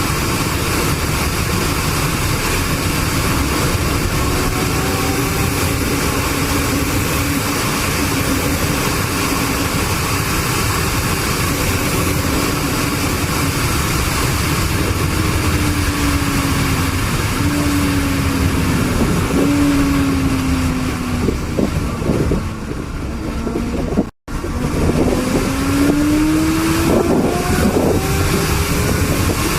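A motor vehicle on the move with heavy road and wind noise. Its engine note sinks in a few steps as it slows, the sound cuts out briefly, then the engine note rises as it speeds up again.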